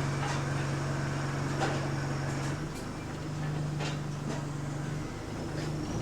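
Bus heard from inside the cabin: a steady low hum from the drivetrain and air conditioning, its pitch shifting slightly about halfway through, with scattered light clicks and rattles from the bodywork.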